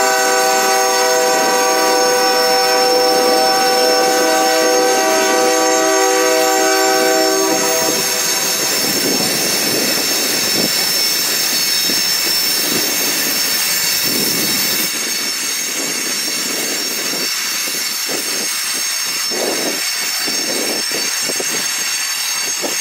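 Freight train passing: a diesel locomotive's air horn sounds one chord of several notes, held for about seven and a half seconds. Then the hopper cars roll by with a steady high wheel squeal and wheels clattering over the rail joints.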